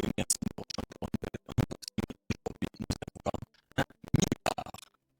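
A rapid, irregular run of short scratchy strokes, several a second, stopping shortly before the end.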